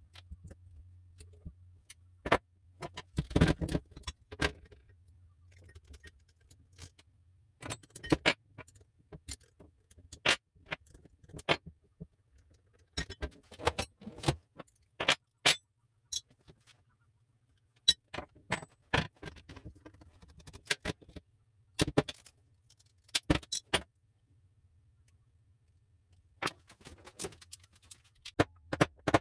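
Hand tools and metal parts clinking and clattering in irregular clusters of sharp strikes, over a faint steady low hum.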